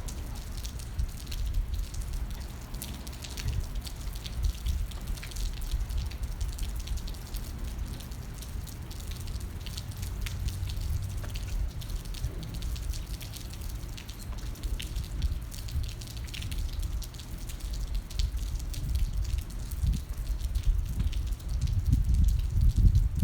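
Rain dripping and pattering in scattered irregular drops, over a steady low rumble.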